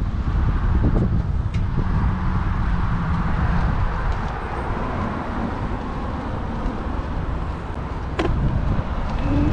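Wind buffeting a GoPro action camera's microphone on a moving bicycle, a heavy low rumble, with road traffic going by. Two sharp clicks, one early and one near the end.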